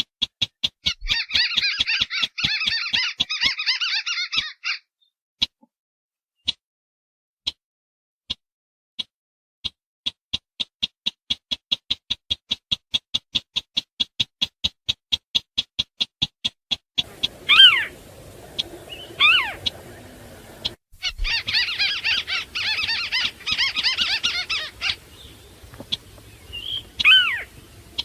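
Bird-lure recording of wetland crakes calling: sintar beker and white-browed crake. A run of short, sharp high notes repeats about three times a second for much of the time. Two dense chattering bursts come near the start and again past the middle, and several single whistles fall steeply in pitch in the second half.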